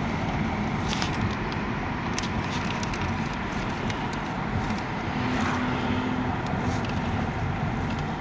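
Steady low rumbling noise with a faint hum, dotted with a few light clicks and crackles.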